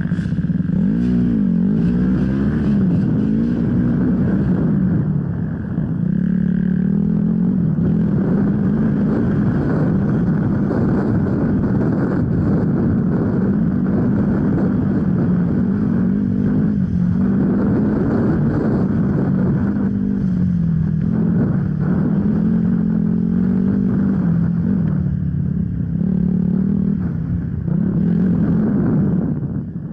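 Enduro motorcycle engine running continuously, its pitch rising and falling over and over as the throttle is worked on and off.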